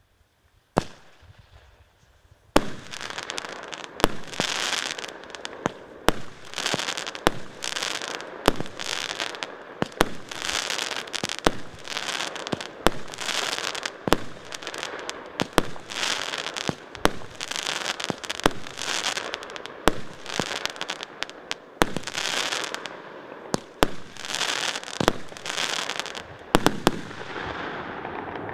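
A 19-shot consumer fireworks battery (cake) firing: one shot about a second in, then sharp launch reports about once a second, each followed by a crackling, hissing burst, until the last shot near the end.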